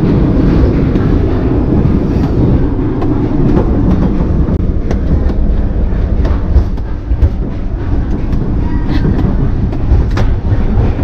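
Passenger train running along the track: a steady low rumble of the wheels and carriage, with scattered sharp clicks and knocks.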